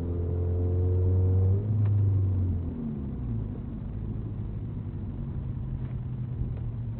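Car engine accelerating with a slowly rising pitch, then easing off about two and a half seconds in and running on steadily at a lower level.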